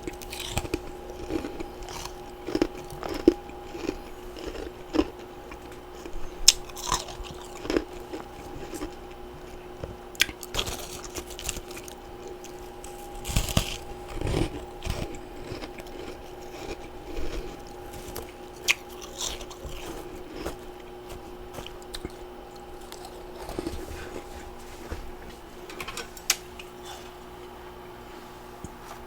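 Close-up biting and chewing of freezer frost and ice chunks: irregular crisp crunches, some sharp bites, with softer grinding chews between them. A faint steady hum runs underneath.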